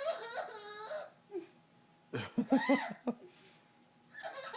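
A parrot mimicking a child's crying: several short, wavering sobs, the loudest about two seconds in.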